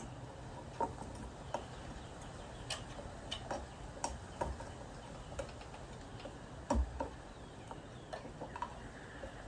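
Scattered, irregular small clicks and taps of hands handling craft materials, with one heavier knock about seven seconds in.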